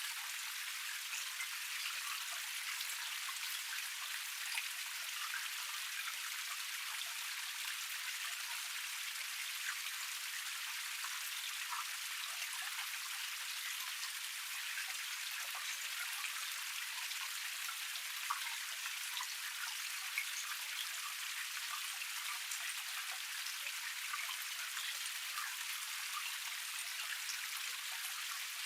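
Water spilling over a small cascade tier in a forest stream, making a steady splashing hiss without low rumble. Many small droplet splashes are dotted through it.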